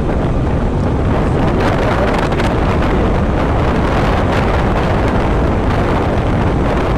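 Wind rushing over the microphone of a riding motorcyclist, mixed with steady engine and road noise from the moving two-wheeler.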